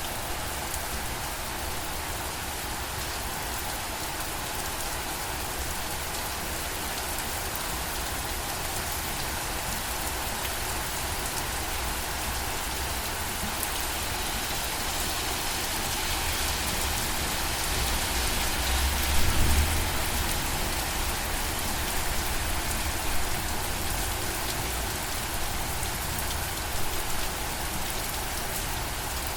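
Steady rain falling, an even patter and hiss. A low rumble swells briefly about two-thirds of the way in.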